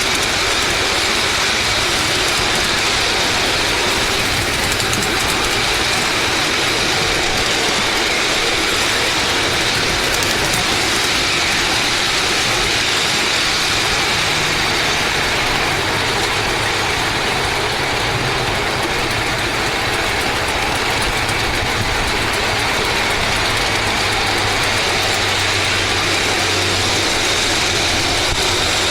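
Steady running noise of a ride-on model railway train, with a faint low hum and a faint high steady whine.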